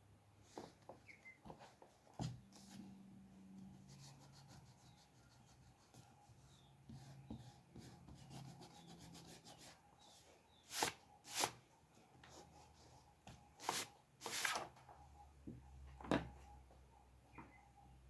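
Short scratchy rubbing strokes on paper, with scattered light clicks and taps of drawing tools; a few louder strokes come in the second half.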